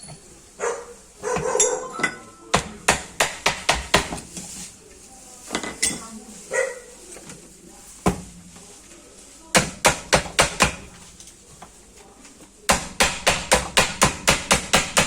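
Hammer striking metal in quick runs of sharp knocks, several short bursts and then a steady run of about four blows a second near the end, during work on a sugarcane press.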